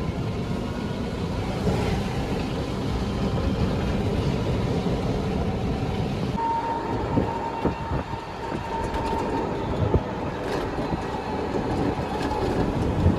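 Steady low rumble of a moving vehicle. About halfway through the sound changes and a faint steady tone joins it for a few seconds, with a few scattered clicks.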